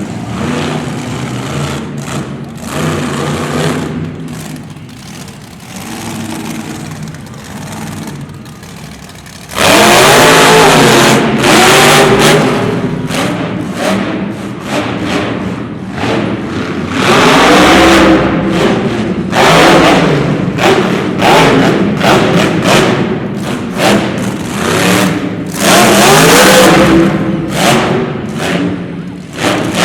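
Mega truck engine running at moderate throttle, then about a third of the way in opening up suddenly to full throttle and revving hard, its pitch rising and falling again and again.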